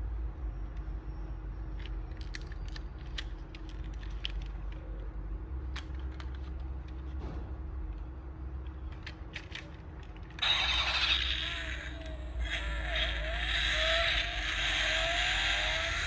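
Light clicks and ticks of a small 1/32 die-cast toy car being handled. About ten seconds in, a louder, thin-sounding electronic engine sound starts suddenly, with repeated rising and falling revs, from the toy's built-in sound unit.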